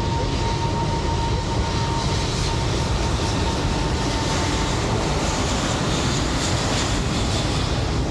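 Steady wind rumble on the microphone of a moving bicycle, with a thin steady whine that fades out about five seconds in.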